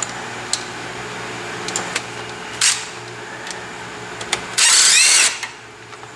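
Scattered metal clicks of a wobble-extension socket and wrench on a hub bearing's 13 mm retaining bolt, then a short burst of a power tool spinning the bolt out, about four and a half seconds in.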